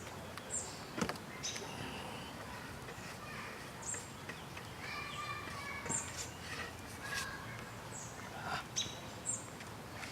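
Birds chirping, short high calls every second or two, with a few faint clicks and knocks.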